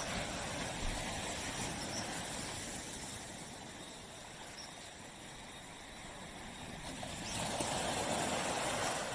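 Waves breaking and washing up a beach: the wash fades away over the first half, and the next wave swells in about seven seconds in.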